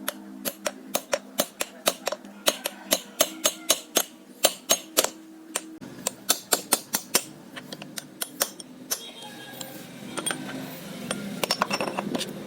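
A run of sharp metallic clicks or taps, roughly three a second, from work on the parts of an old rusty hand drill, giving way near the end to a rougher scraping noise with a few more clicks.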